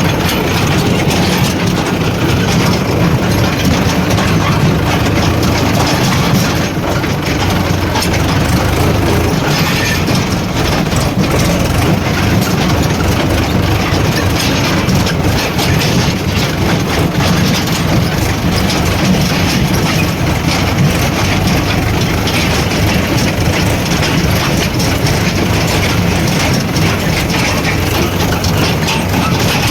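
Diesel engines of a backhoe loader and tractors running steadily while loading mud, with constant clattering.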